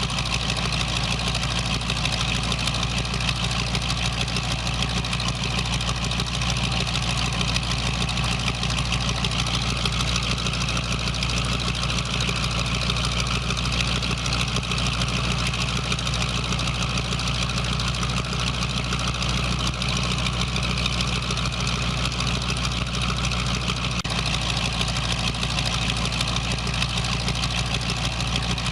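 Car engine idling steadily, an even, unchanging running sound.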